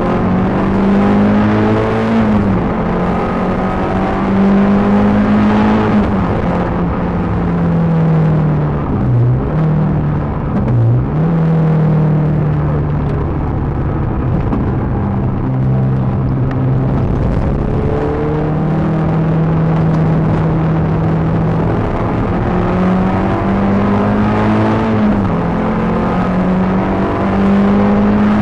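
Peugeot 306 GTi6's 2.0-litre four-cylinder engine driven hard, its revs climbing and dropping again and again through gear changes, with two short sharp dips in pitch about nine and eleven seconds in.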